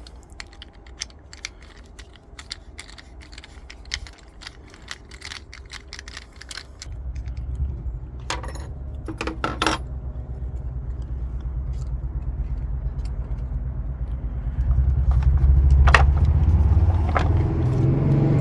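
Light metallic clinks and rattles of small tools and hardware being handled, many quick clicks in the first half. About seven seconds in, a steady low rumble starts and grows louder near the end, covering the clinks.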